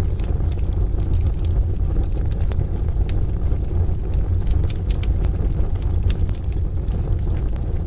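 Wood fire crackling with scattered sharp pops and snaps, a few a second, over a steady deep rumble.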